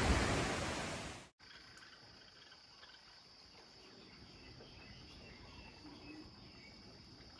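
A loud rushing noise fades and cuts off about a second in. Then a faint, steady high-pitched insect trill, typical of crickets, runs on with a few faint chirps.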